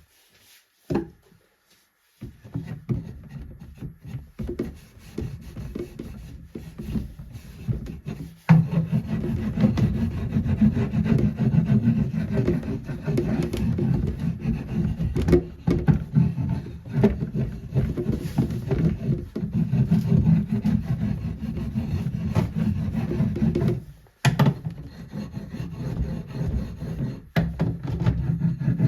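Rapid back-and-forth rubbing on the wooden chest, continuous strokes that start about two seconds in, grow heavier partway through and pause briefly near the end.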